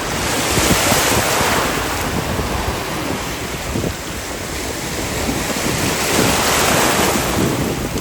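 Sea waves washing in, surging twice, with wind rumbling on the microphone.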